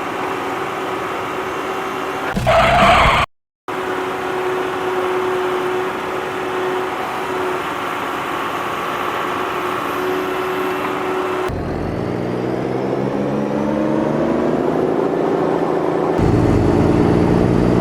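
Vehicle engine running steadily, cut off briefly after about three seconds, then revving up with a rising pitch over several seconds in the second half.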